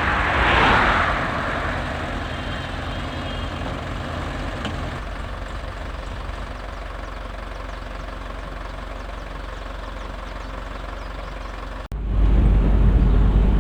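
VW Kombi creeping slowly forward under its own engine, with the knock of a failing bearing. This damage is why it cannot be driven on. Near the end the sound cuts off abruptly and is replaced by a louder, steady low rumble.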